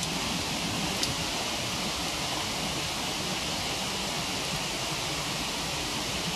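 Steady rush of a waterfall, with a single sharp crackle from the wood fire about a second in.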